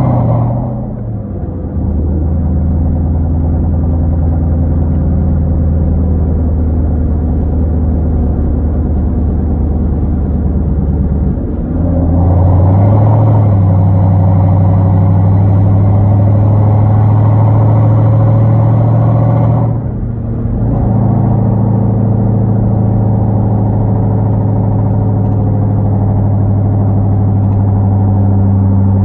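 Straight-piped Hyundai Genesis 5.0 V8, with Flowmaster Super 10 mufflers, a 2.5-inch exhaust and no catalytic converters, droning steadily while driving. About twelve seconds in it gets louder and rises slightly in pitch under acceleration for about eight seconds. It then falls back and settles into a steady cruising drone.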